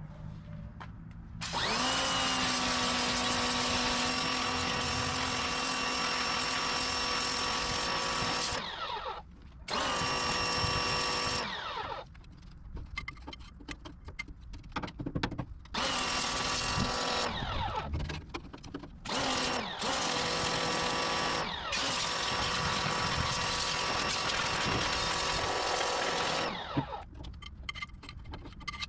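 Pressure washer motor whining in repeated bursts as the spray trigger is pulled and released. The whine spins up about a second and a half in, runs steadily for several seconds, then cuts out and restarts several times with short gaps between.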